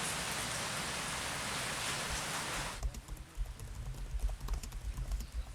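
Steady heavy rain falling, cutting off suddenly about halfway through. After it come faint, irregular clicks and low thumps.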